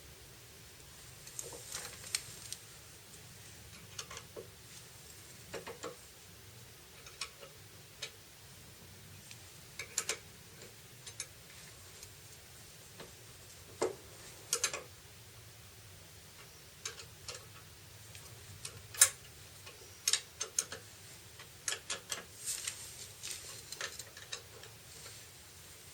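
Light clicks and taps at irregular intervals over a quiet steady background, with a sharper click near the middle and a busier cluster of clicks near the end.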